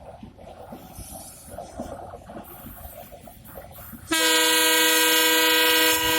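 Diesel locomotive's air horn sounding one long, steady, loud blast, starting suddenly about four seconds in, after a few seconds of faint background noise.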